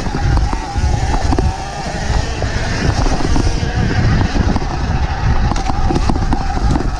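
Sur-Ron Ultra Bee electric dirt bike riding over rough single track: a steady, thin motor whine over heavy low rumble and wind on the microphone, broken by frequent short knocks and rattles from the bumpy trail.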